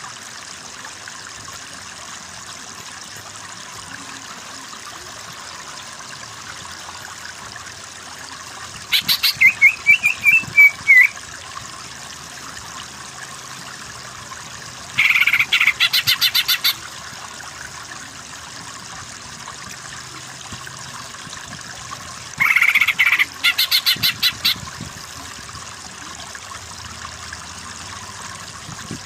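Greater green leafbird (cucak ijo) calling in three bursts of rapid repeated chirps, each lasting one to two seconds: about a third, a half and three quarters of the way through. Under them runs a steady background hiss.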